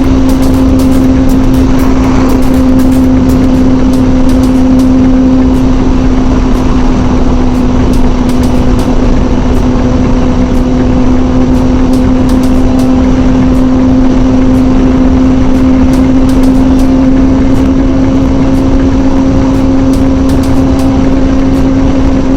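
Kawasaki ZZR600's inline-four engine running at steady high revs, its pitch held constant at cruising speed. Heavy wind rush on the microphone runs underneath.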